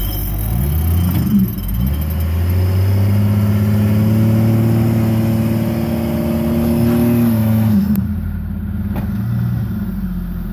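Jeep Cherokee XJ rock crawler's engine revving under load as it climbs a steep dirt ledge with winch assist: a few quick rises and falls in pitch, then held high and steady for several seconds before dropping back near the end.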